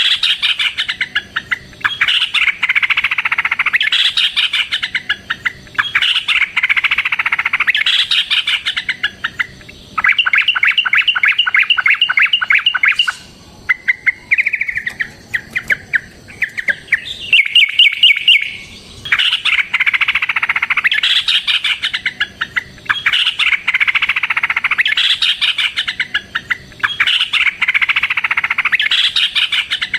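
Yellow-vented bulbuls singing: loud bubbly chattering phrases repeated one after another. About ten seconds in there is a quick run of evenly spaced notes, then broken chatter, before the phrases return.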